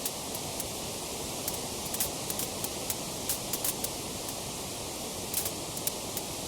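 Wood fire crackling: frequent small, sharp pops at irregular intervals over a steady hiss of burning.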